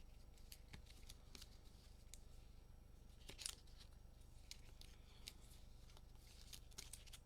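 Faint clicks and short rustles of trading cards being handled and sorted, with one sharper snap about three and a half seconds in, over a low steady hum.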